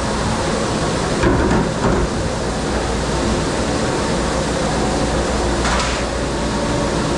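Steady machine noise of a commercial dish room, with dishes and metal clattering a few times: about a second in, just before two seconds, and near six seconds.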